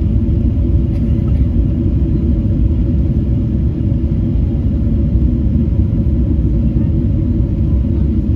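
Boeing 777-300 heard from the cabin during the landing rollout: a loud, steady, deep rumble of the engines and the wheels running on the runway.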